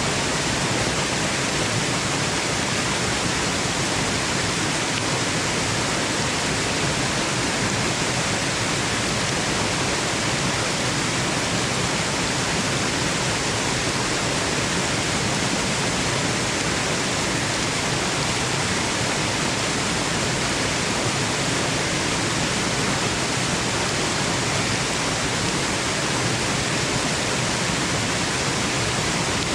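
Waterfall rushing steadily: an even, unbroken wash of water noise that never changes.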